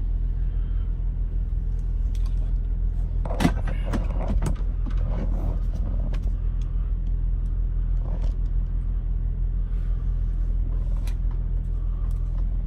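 Steady low drone of an idling truck engine heard in the cab, with a short clatter of handling about three and a half seconds in.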